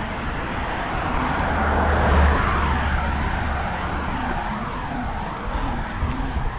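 A car passing on the road, its tyre and engine noise swelling to its loudest about two seconds in, then fading.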